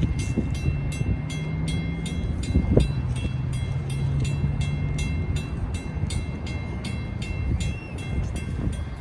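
A train on the line, with a steady low engine hum and a rapid, regular ringing of about three strikes a second.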